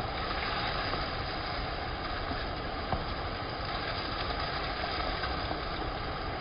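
Steady rush of a waterfall mixed with heavy rain, an even noise that holds without change.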